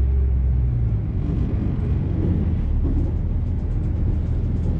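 Passenger train running across the Forth Rail Bridge, heard from inside the carriage: a steady low rumble of wheels on the rails. A faint whine stops right at the start.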